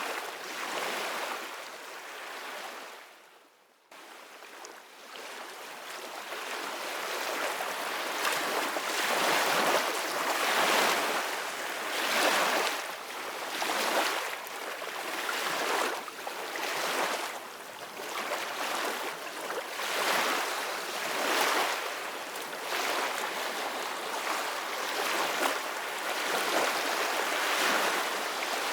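Ocean surf: waves breaking and washing in, surging every second or two. About three seconds in the sound fades almost away, then cuts back in abruptly and builds louder.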